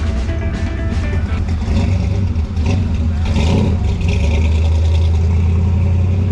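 A car engine running with a steady deep rumble. Music fades out in about the first second.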